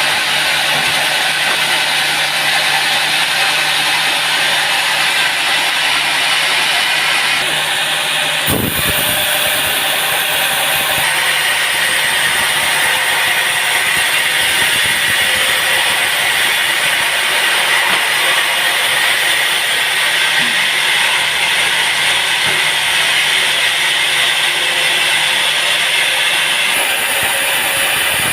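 Sawmill machinery running steadily with a loud whirring noise over a low hum, with a short sudden break about eight seconds in.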